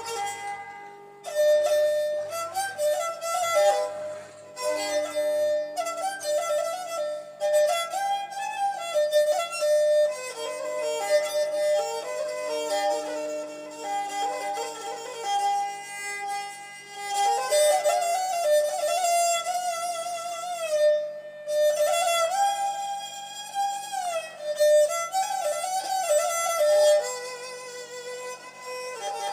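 Nepali sarangi, a bowed folk fiddle, playing a melody that steps up and down, over steady low tones.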